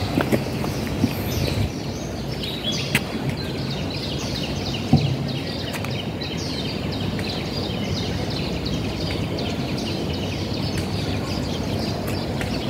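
Birds chirping: many short, falling high notes repeating over and over, above a steady low background rumble. A single brief thump comes about five seconds in.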